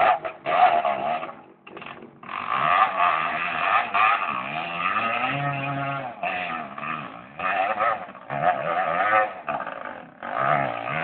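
Enduro motorcycle engine revving hard in repeated surges, its pitch rising and falling again and again, with a brief drop about two seconds in.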